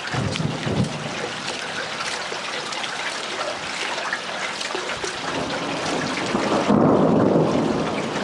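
Rain falling steadily with a rumble of thunder, which swells to its loudest about seven seconds in.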